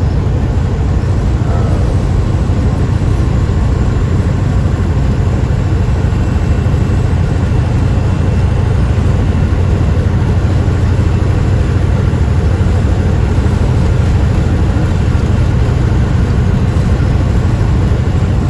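Steady low drone of a semi-truck's engine and road noise heard from inside the cab while driving, unbroken throughout.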